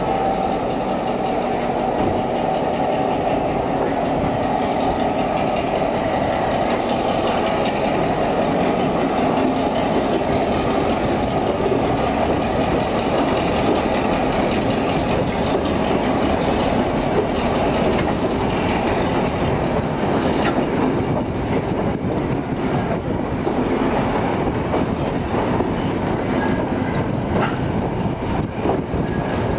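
Slow-moving diesel-hauled heritage train heard from one of its own wagons: a steady rumble and clatter of steel wheels running over the track, with scattered clicks from the rail joints that come more often in the second half.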